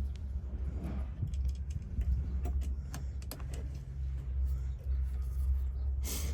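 Small metal clicks and light rattling as van door lock parts and a spring are handled and fitted, over a steady low rumble, with a louder scrape just before the end.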